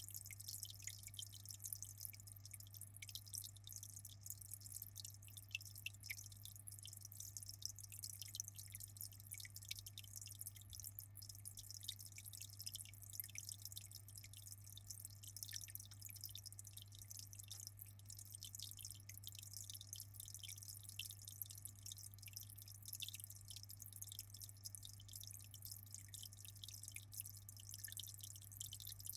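Aquarium water trickling and dripping in a dense patter of tiny splashes over a steady low hum, typical of an aquarium filter or pump running.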